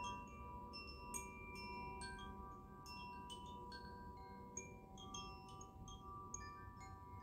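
Chimes ringing softly during a sound-therapy session: many light, irregular strikes of high tones, each ringing on and overlapping the next, over a faint low background hiss.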